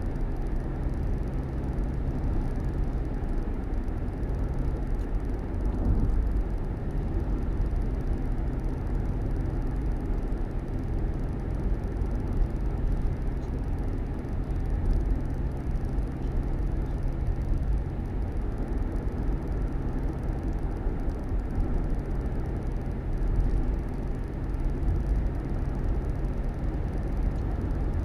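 Steady low rumble of a running vehicle: engine hum and road noise.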